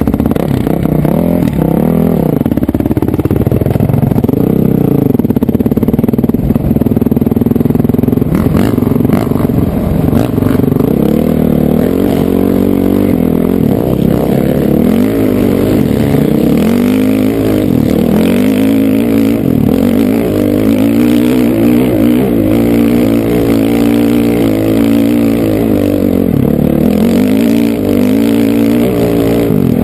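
Honda CRF450R dirt bike's single-cylinder four-stroke engine running hard, its pitch rising and falling over and over as the throttle is worked, about every two seconds in the second half.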